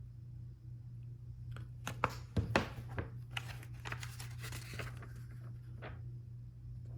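Hands rustling paper or plastic while handling Lego Technic parts, with a few sharp clicks early on and a steady low hum underneath.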